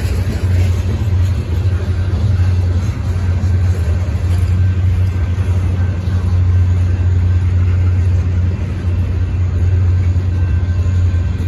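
Union Pacific manifest freight train's cars (tank cars and covered hoppers) rolling past close by: a loud, steady low rumble of steel wheels on the rails.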